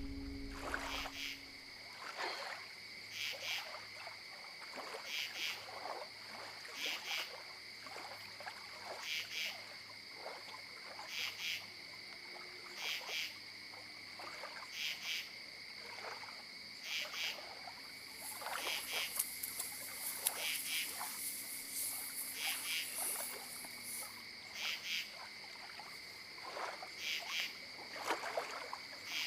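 An animal calling: a short, clipped chirp at a fixed pitch, repeated every second or two. A faint high hiss joins in for several seconds past the middle.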